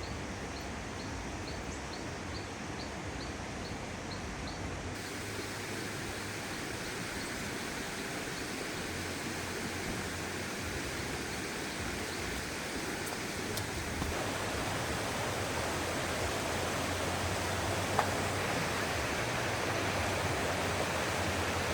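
Stream water rushing steadily, stepping up in level abruptly about five seconds in and again about fourteen seconds in. A faint high chirp repeats about twice a second over the first few seconds.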